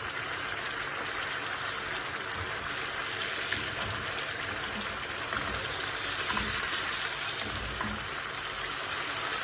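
Chicken and masala sizzling steadily in hot oil in a black iron wok (kadai) as a spatula stirs it, while the masala is being fried down.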